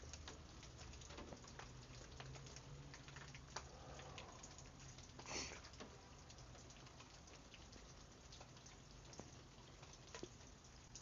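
Light rain falling, faint, with many scattered drips and patter. One brief louder hiss comes about five seconds in.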